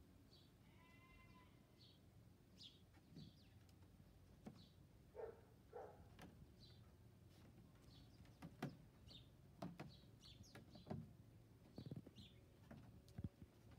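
Faint birdsong: short high chirps repeating about once a second, with a brief pitched call near the start. A scattering of soft clicks and knocks, the loudest sounds, comes mostly in the second half.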